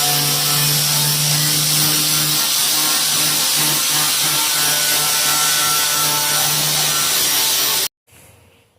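Power grinder with a sanding disc running steadily against the steel floor pan, grinding off light surface rust. Cuts off abruptly near the end.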